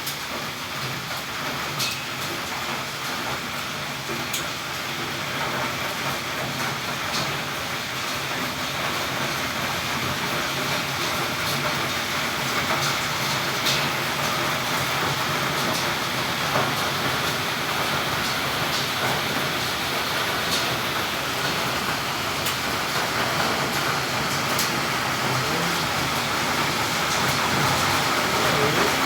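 Heavy rain pouring down steadily, with scattered sharp taps of drops striking hard surfaces; the downpour grows gradually louder.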